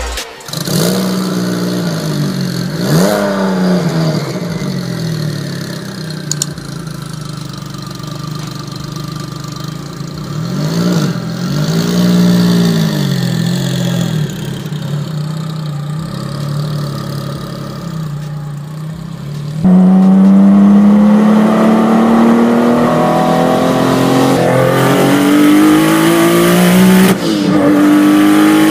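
9ff Porsche 911-based supercar's flat-six engine idling with a few short blips of the throttle. About twenty seconds in, it runs loud under hard acceleration, its pitch climbing steadily, with one gear change near the end.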